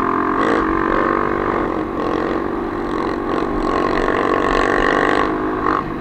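Off-road trail motorcycle engines running steadily.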